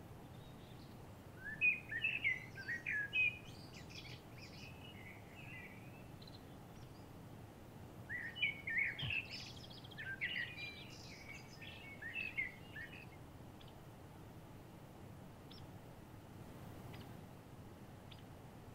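A songbird singing two bursts of quick, varied high notes, the first about a second and a half in and the second about eight seconds in, over a faint steady hiss.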